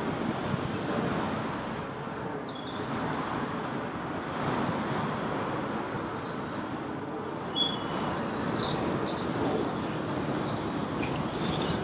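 Small birds chirping in quick runs of short, high notes that recur every second or two, over a steady background hiss of outdoor ambience.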